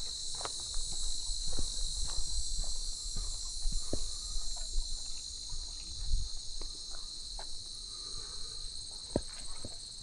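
Steady, high-pitched chorus of insects buzzing continuously in the trailside vegetation. Beneath it come irregular soft footsteps of someone walking the trail.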